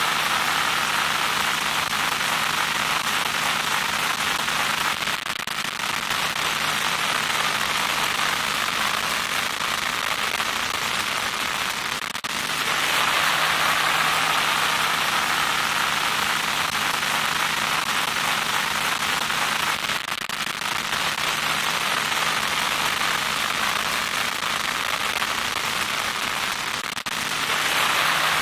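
Loud static noise: a steady, harsh hiss strongest in the upper-middle range, with a faint low hum beneath it. The hiss dips briefly about twelve seconds in and again near the end.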